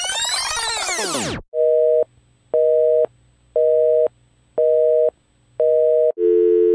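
A loud sound effect of many tones gliding up and falling back ends about a second and a half in. Then a North American telephone busy signal beeps five times, about once a second, and a steady dial tone starts near the end.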